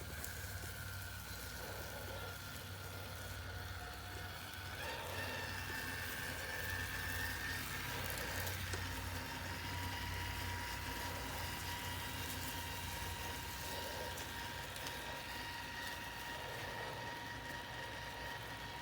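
Traxxas TRX-4 RC crawler's electric motor and gears whining steadily as it drives, the whine stepping up in pitch about five seconds in.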